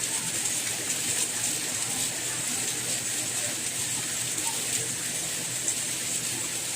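Steady rain falling: an even hiss, brightest in the high range, with a few faint drop ticks scattered through it.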